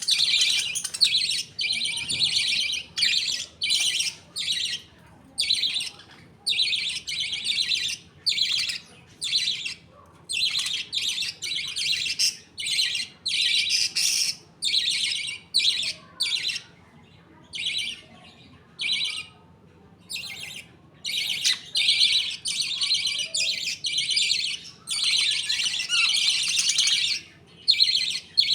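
Budgerigars chattering and chirping in a run of short, high bursts with brief gaps between them, thinning out for a few seconds about two-thirds of the way through.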